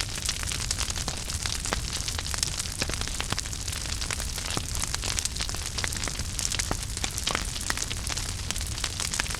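Wood fire burning in a fireplace, a steady low rumble and hiss with frequent sharp crackles and pops.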